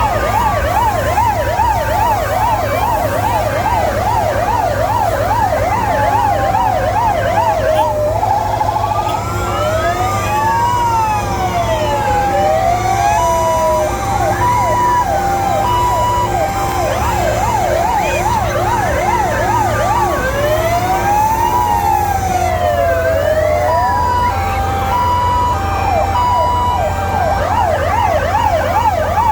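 Several fire engine sirens sounding together and overlapping: a fast yelp, slower rising and falling wails, and a two-tone hi-lo. Under them runs a steady low engine rumble.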